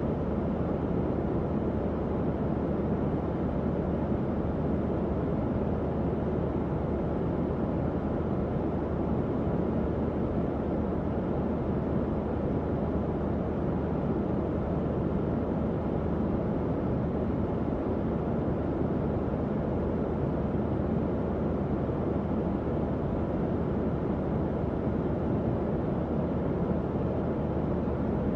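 Tower fan running steadily: an even airy whoosh weighted toward the low and middle range, with a faint low motor hum underneath.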